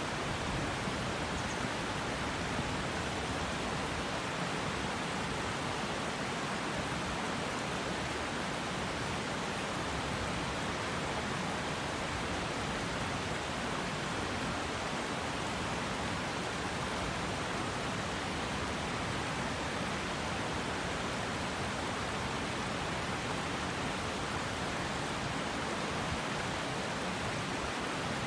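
Steady rushing of a river flowing over rocks, an even unbroken roar of water.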